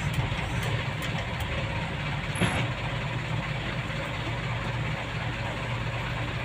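Motor vehicle engine running steadily, with one short knock about two and a half seconds in.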